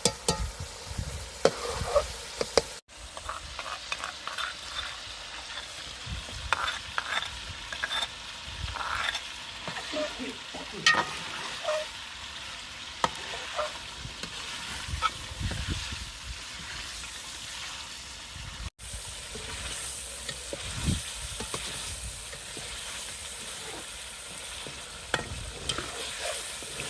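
Food sizzling and frying in a pan while it is stirred, with the spoon clicking and scraping against the metal. The sound breaks off briefly twice.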